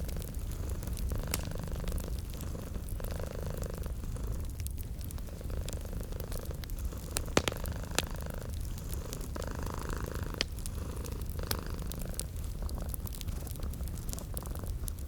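Domestic cat purring: a steady low purr that swells and fades with each breath. Over it are the scattered snaps and pops of a crackling fireplace, with a couple of sharper pops about halfway through.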